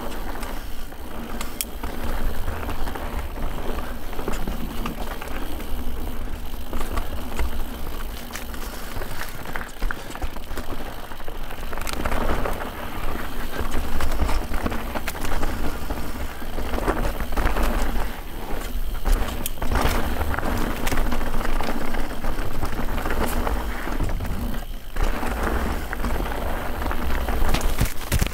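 Guerrilla Gravity The Smash mountain bike descending a trail, its tyres rolling and skidding over dirt, leaves and rock. The frame, chain and suspension rattle with many quick clicks and knocks over a steady low rumble.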